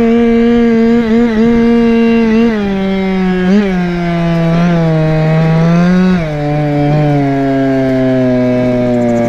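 Goped scooter's Chongyang CY26RC two-stroke engine running at high revs. It slows in steps about two and a half and six seconds in, settling to a much lower steady speed near the end.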